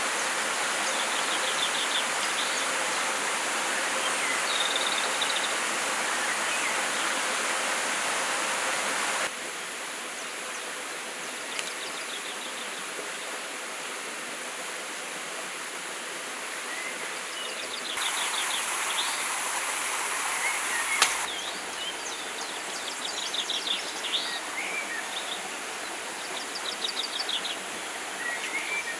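Steady rush of a forest stream with small birds chirping and trilling over it. The water noise drops abruptly about a third of the way in and swells again for a few seconds later on. There is one sharp click about two-thirds through.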